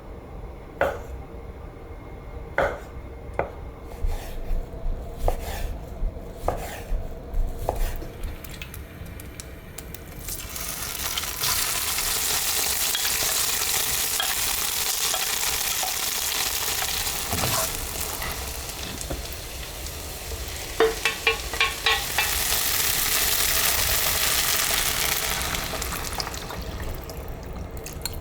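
Utensils clinking and knocking against kitchenware, then, about ten seconds in, food starts sizzling in a hot pan. The sizzle is steady, with a quick run of clicks partway through and a swell in the sizzle, then it dies down near the end.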